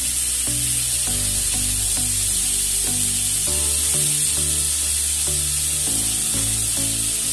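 Small stuffed brinjals frying in oil in a kadhai: a steady high sizzle. Background music of held notes changing about every half second plays over it.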